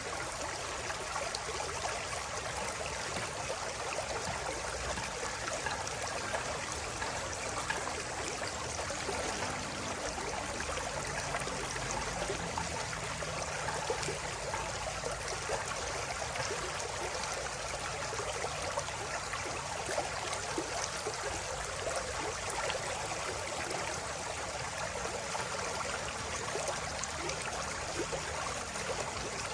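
River water flowing and babbling steadily, an even rushing with fine splashing detail.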